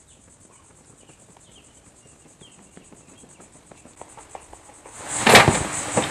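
Crickets chirping steadily in a fast pulsing trill. Over the last seconds a louder sound builds, ending in a sudden loud burst of noise about five seconds in.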